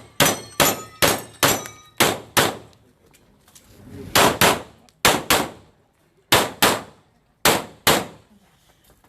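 Handgun shots fired in quick pairs, about a dozen rounds with gaps of a second or so between the pairs, as the targets are engaged one after another during a timed drill. Over the first couple of seconds the shots are followed by a ringing metallic tone.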